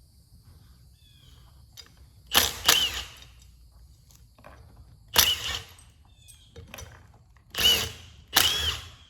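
A power tool run in five short bursts, its whine rising and falling with each trigger pull, spinning bolts out of a torque converter.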